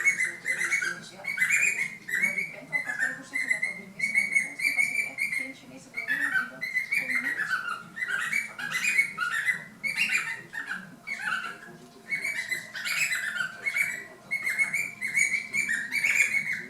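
A pet bird singing: a long run of chirpy, warbling whistled phrases with short breaks between them.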